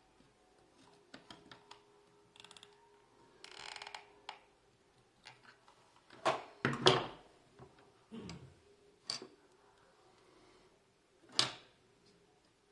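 Scattered clicks and knocks from hands working a hot glue gun and small plastic parts, with a short rustle about four seconds in and a few louder knocks in the second half.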